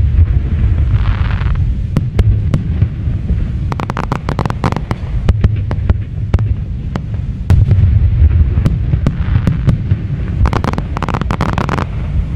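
Aerial fireworks display: a continuous deep rumble of shell bursts, with many sharp crackling pops throughout. There are patches of hiss about a second in and again near the end.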